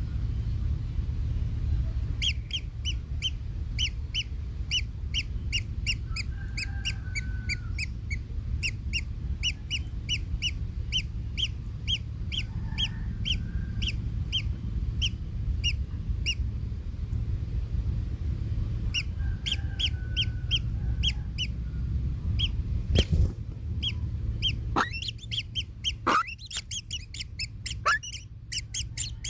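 Kingfisher giving short, sharp calls repeated about twice a second, in two long runs, then quicker, more excited calls with falling squeals near the end. A steady low rumble runs underneath, and a single knock comes about 23 seconds in.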